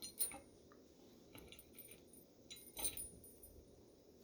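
A few faint metallic clicks and scrapes as a bolt is worked by hand into the steel engine stand; the bolt is cross-threading.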